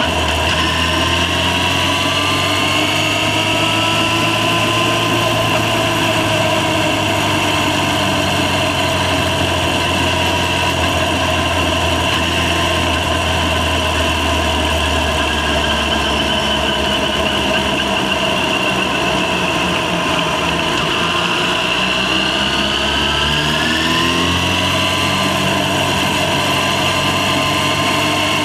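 Yamaha FZ6 inline-four engine running under way. Its pitch holds fairly steady, sags a little about two-thirds of the way through, then climbs again as the bike accelerates.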